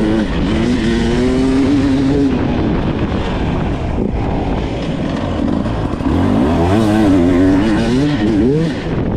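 Off-road racing motorcycle's engine heard onboard while being ridden hard, revving up and down, with the revs climbing and falling repeatedly in the last few seconds. A rough haze of wind and track noise on the microphone runs under it.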